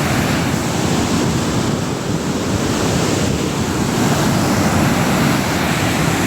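Loud, steady roar of falling water from a waterfall.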